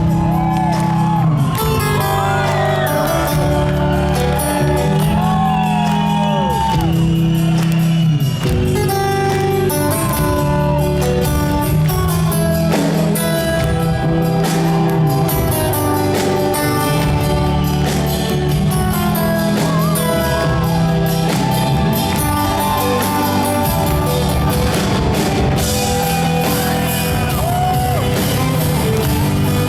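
Live rock band music with singing, played loud in a large arena.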